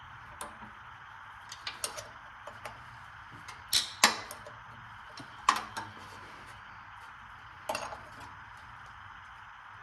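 Hand tools clinking and knocking against metal parts of a Craftsman V-twin engine while its carburetor is being taken off. Scattered light clicks, with louder clanks about four, five and a half and eight seconds in.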